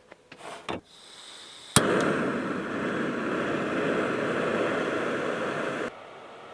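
Gas camp stove lit with a sharp igniter click, then the burner runs with a loud, steady rushing hiss that cuts off suddenly about four seconds later.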